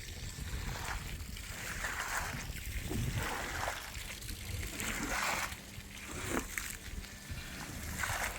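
Water sloshing and splashing in repeated strokes, swelling and fading about every second or two.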